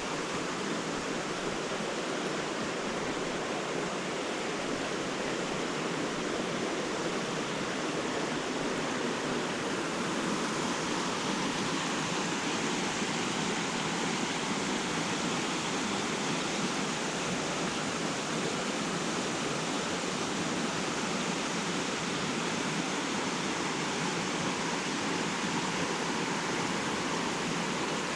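River water rushing, an even, unbroken hiss that holds steady throughout.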